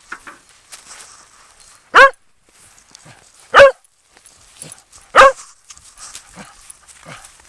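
A corgi barking loudly three times, about a second and a half apart, with faint crunching steps in snow between the barks.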